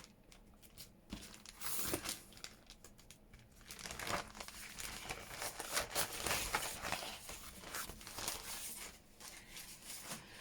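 Loose craft papers rustling and crinkling as they are picked up and handled, coming and going irregularly and busiest in the middle.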